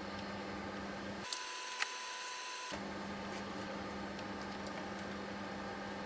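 Steady room hiss and a low hum, with two small sharp clicks about a second and a half in.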